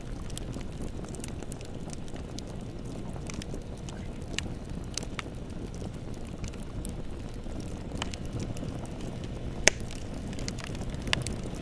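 Bonfire burning with a steady low rumble and irregular crackles, including one sharp pop about two-thirds of the way through.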